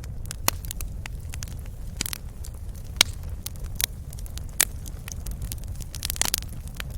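Wood fire crackling in a fireplace: a steady low rumble of the flames with scattered sharp pops and snaps, the loudest about three seconds in and a quick cluster near the end.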